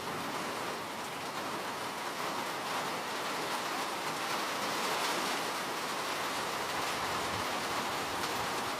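Steady rain falling, an even hiss of many drops that swells slightly about halfway through.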